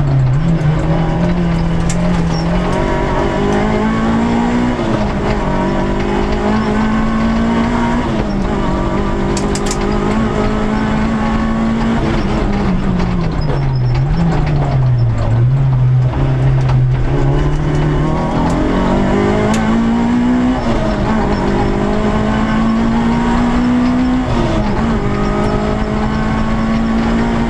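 Peugeot 106 S16 rally car's 1.6-litre 16-valve four-cylinder engine heard from inside the cabin under hard acceleration, its pitch climbing in each gear and dropping at each upshift. About halfway through it slows, the pitch falling and dipping through downshifts, then it pulls hard up through the gears again.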